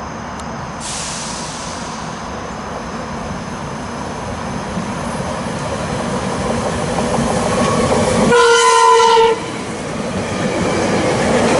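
SEPTA commuter train running through the station, its rumble and wheel noise growing steadily louder, with a hiss starting about a second in. Its horn sounds one blast of about a second roughly eight seconds in, the loudest moment.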